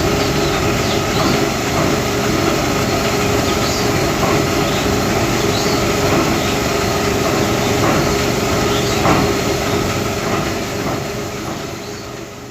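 Combine harvester running steadily while harvesting paddy, its engine and threshing machinery making a dense, continuous mechanical noise that fades out near the end.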